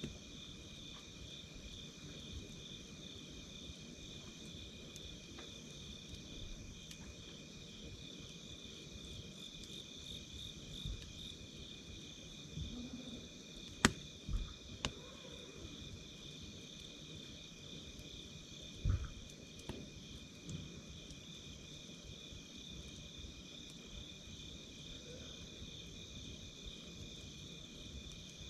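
A steady chorus of night insects chirping, with a wood campfire burning underneath and giving a few sharp pops and crackles near the middle.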